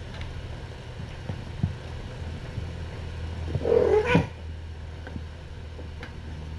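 A cat meows once, a short bending call about three and a half seconds in, over a steady low hum.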